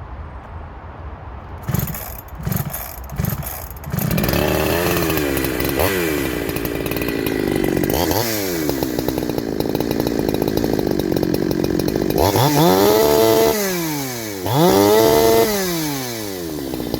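Two-stroke chainsaw fitted with a shotgun-style pipe muffler. It gives a few short bursts, catches about four seconds in, and runs with quick blips of the throttle. Near the end it is twice revved up and let back down, as the carburettor's high-speed jet is being set after the muffler leaned it out.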